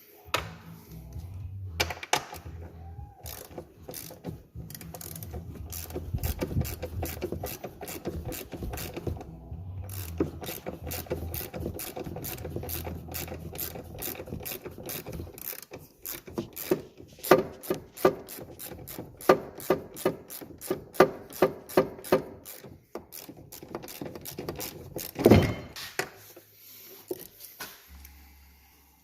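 Hand ratchet wrench being worked on a nut or bolt during a shock absorber replacement: a quick run of ratchet clicks, then slower strokes with louder, separate clicks, and a single heavy knock near the end.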